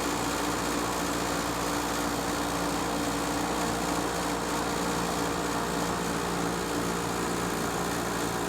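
Vintage Norge window air conditioner running steadily, its compressor and fan motor giving an even hum. The owner says the compressor sounds amazing and that the fan motor is already bad and due for a rebuild.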